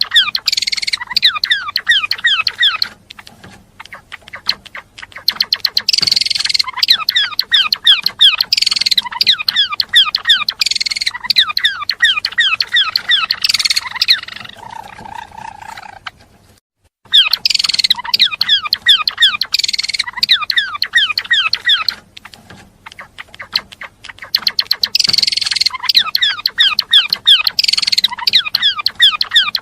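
A gelatik belong songbird singing long, rapid chattering runs of high notes, with short quieter breaks and one brief silent gap just past halfway, after which the same song repeats.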